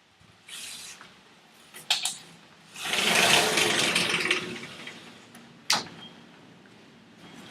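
A thunderclap during a nighttime electrical storm: a broad rumble swells up about three seconds in and fades away over a couple of seconds, with a few sharp clicks before and after it.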